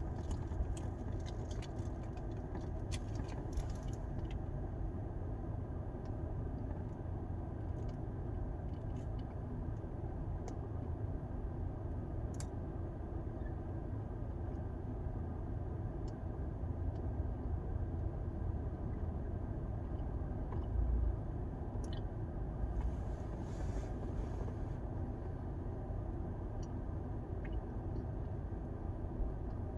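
Steady low rumble of an idling vehicle, with a person chewing a bite of a dry, chewy soft pretzel. A few light clicks and crinkles come in the first few seconds.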